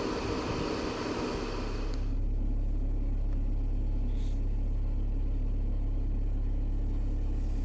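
A steady low rumble. A brighter hiss over it drops away about two seconds in, leaving mostly the deep rumble.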